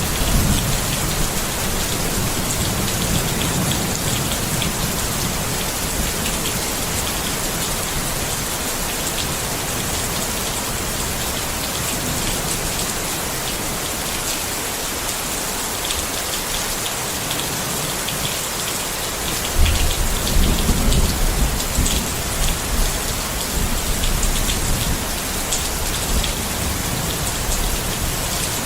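Steady rain falling on a tent, a dense hiss with individual drops tapping on the fabric. A low rumble of thunder rolls in the first few seconds, and another starts suddenly about two-thirds of the way in and lasts several seconds.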